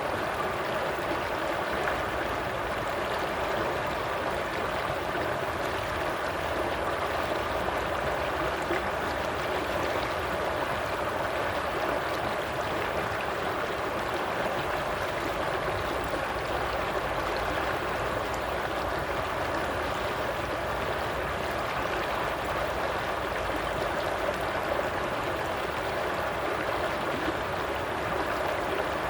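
Running water flowing steadily, a stream's even rush and gurgle with no breaks or changes.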